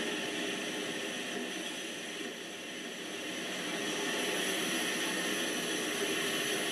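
N-gauge model diesel locomotive (BR 212 / V100) running on its track, a steady motor whine and wheel noise. It dips a little about two seconds in and grows louder again from about four seconds in.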